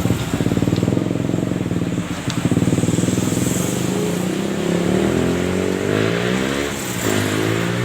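A motorcycle engine running at a fast idle, then revved up and down several times in the second half.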